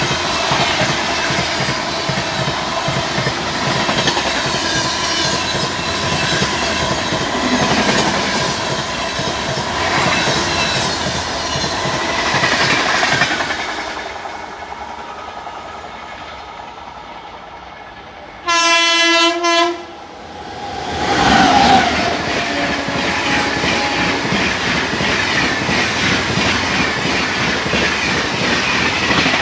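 An express train's coaches clattering past over the rail joints, fading away after about 13 seconds. A locomotive horn then blasts once for just over a second, and another train rushes past, loud and rattling, through the rest.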